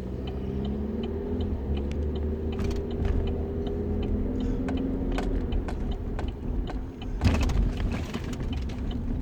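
Steady low rumble of a running motor vehicle with faint, regularly spaced clicks, and a brief louder rustle about seven seconds in.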